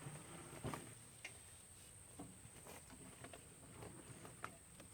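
Near silence, broken by a few faint, scattered clicks and rustles.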